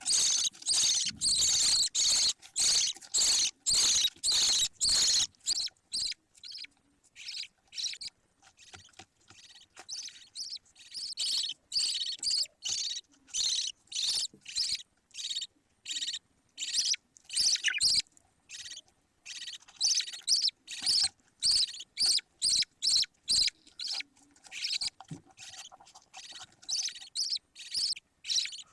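Budgerigar chicks calling in a long run of short, hissy chirps, about three a second at first, then more spaced and uneven.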